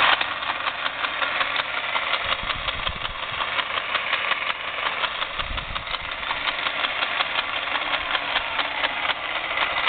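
The motor and gearbox of a Milwaukee 4208-1 magnetic drill press running in forward with a very loud, rapid, continuous clattering knock from the gearbox, which the owner suspects is defective.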